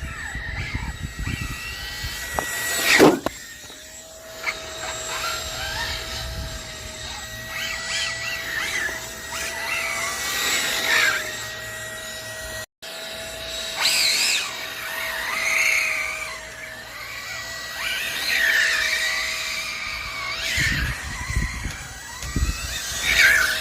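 Brushless motor of an RC car (Hobbywing EZRun 7125, 560 kV, on a Max 4 ESC) whining up and down in pitch as the car accelerates and slows on a test run, over a steady high-pitched hum. The sound cuts out for a moment about halfway.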